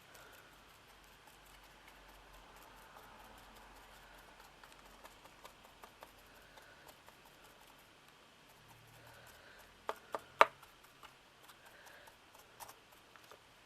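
Faint scratchy taps of a paintbrush dabbing acrylic paint onto a glittered bird ornament, with three sharp clicks close together about ten seconds in.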